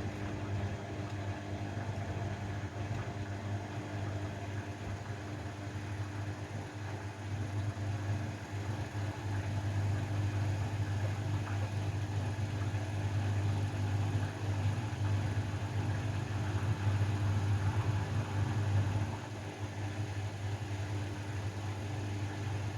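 Washing machine running: a steady low motor hum over a noisy wash of water and tumbling laundry, growing a little louder about a third of the way in.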